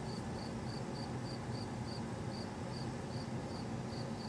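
A cricket chirping steadily, about four short chirps a second, over a low steady hum.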